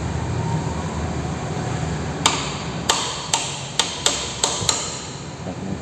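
Hammer knocking a steel tool against a motorcycle's steering-head lock nut to break it loose. About seven sharp metallic strikes come in the second half, spaced irregularly over some two and a half seconds.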